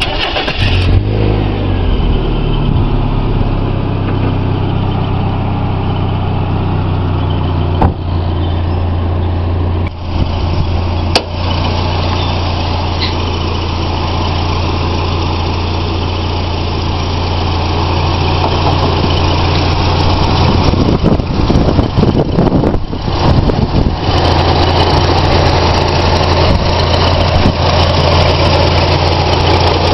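1991 Mazda Miata's 16-valve four-cylinder engine starting and then settling into a steady idle. Its pitch dips and evens out over the first couple of seconds, then holds a steady hum.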